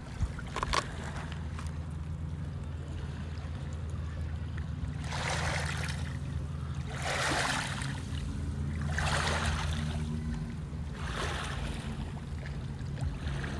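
Small waves washing against shoreline rocks, four swells of surf about two seconds apart, over a steady low drone.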